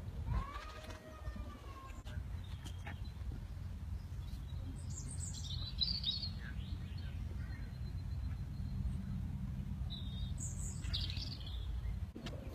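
Wild birds chirping and singing in short bursts, about five seconds in and again about ten seconds in, over a steady low rumble.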